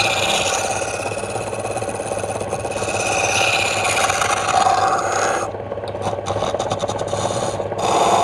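Wood lathe running, with a turning tool scraping and cutting a spinning wooden workpiece over the steady hum of the motor. About five and a half seconds in, the cutting thins out into a run of rapid, even ticks.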